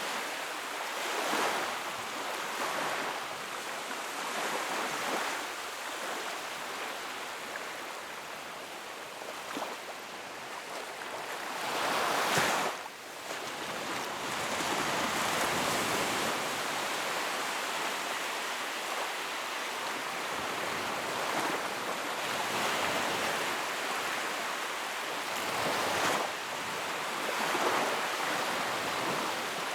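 Wood fire burning in a fireplace: a steady rushing crackle that swells and fades, with one louder surge about twelve seconds in that drops off sharply.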